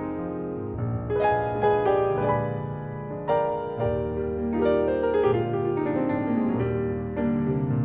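Piano music: a slow, gentle melody of struck notes and chords, each note ringing on and fading.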